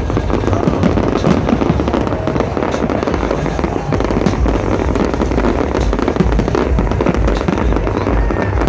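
Aerial fireworks going off in a dense, continuous barrage: rapid overlapping bangs and crackling over a deep booming rumble, with no break.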